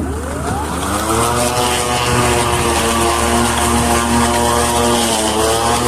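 Greenworks 40V 16-inch brushless cordless lawn mower starting up: the electric motor and blade spin up with a rising whine over about a second, then run at a steady pitch, dipping briefly about five seconds in.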